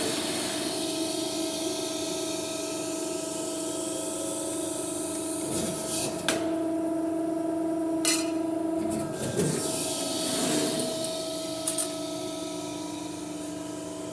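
CNC press brake running through its bending cycle: a steady machine hum with two sharp knocks about six and eight seconds in, and the lower part of the hum dropping away about nine seconds in.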